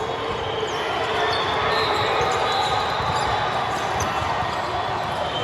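Steady din of a busy gym, with volleyballs bouncing on the court floor.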